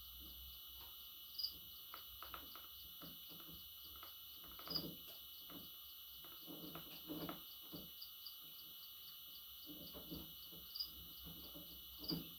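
A few short, faint high chirps, four in all, from a budgerigar, with soft irregular low chatter between them. Beneath them runs a steady high-pitched buzzing hiss with a fast pulsing rhythm.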